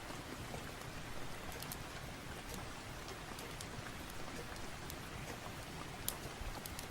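Steady rain with scattered sharp ticks, one louder click about six seconds in.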